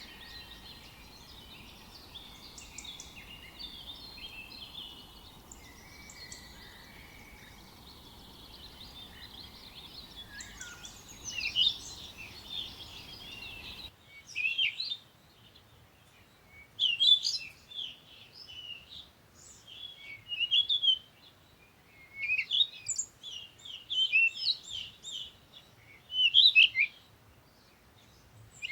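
Songbirds chirping and twittering: a dense chorus of many overlapping calls over a steady background hiss, then about halfway through an abrupt switch to separate, louder bursts of bright chirps every second or two over a quieter background.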